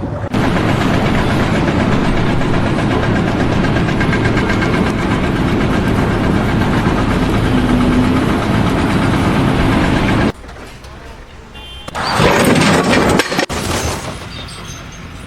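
A motor running loudly and steadily, cut off suddenly about ten seconds in, followed by a shorter loud burst of similar noise.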